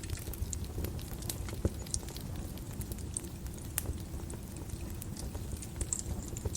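Wood fire crackling in a fireplace: irregular sharp pops and snaps, a few a second, over a steady low rumble of the flames.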